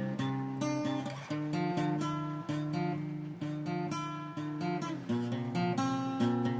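Strummed acoustic guitar playing chords, changing chord about every half second, with no singing.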